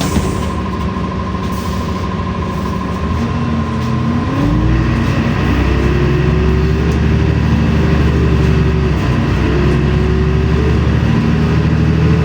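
LiAZ-5292 city bus heard from inside the cabin, pulling away: the drivetrain whine rises in pitch about three seconds in, and the engine note swells and grows louder from about four and a half seconds as the bus accelerates. A steady high tone sounds for the first four seconds, then stops.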